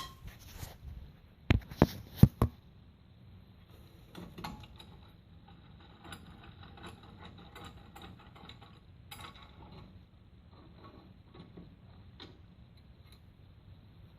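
A C-clamp being tightened against a socket and exhaust adapter to press a brake wheel cylinder's retaining clip into place. Several sharp metal knocks come about two seconds in, followed by faint scattered clicks and scrapes of the clamp and tools.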